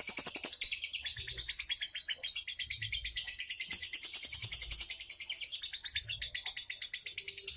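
A kept songbird singing a long, continuous song of fast, high-pitched chirping notes.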